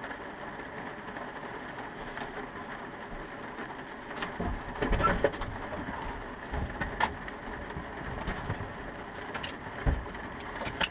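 Steady rain patter with scattered knocks, clicks and low thumps, loudest about four to five seconds in and again near the end, as someone climbs into a Cessna 150's cockpit.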